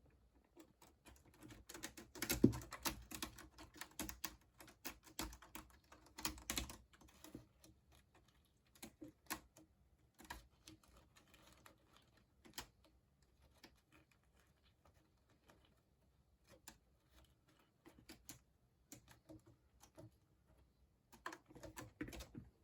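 Kittens scampering and batting at toys: a quick, irregular clatter of small clicks and taps. It is busiest in the first few seconds, thins out, then picks up again briefly near the end.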